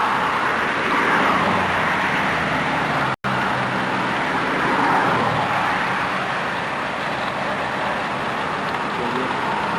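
Steady car and road noise. A brief cut-out in the sound about three seconds in.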